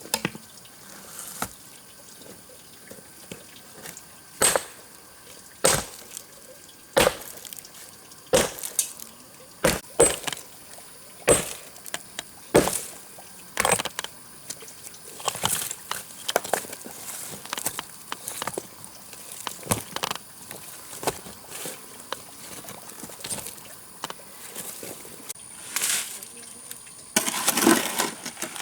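Repeated sharp knocks, irregularly spaced about a second or two apart, followed near the end by a longer scraping, rustling noise.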